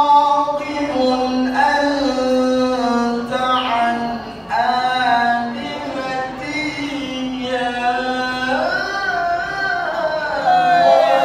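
A qari's voice in melodic Quran recitation, in the drawn-out mujawwad style: long held notes with ornamented turns and glides, phrase after phrase.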